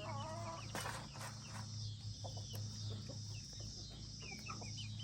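Chickens clucking with many short high chirping calls, over a steady low hum; a brief rustle about a second in.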